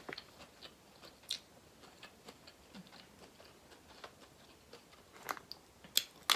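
A person chewing food with wet mouth clicks, faint and scattered, with a few sharper smacks about a second in and near the end.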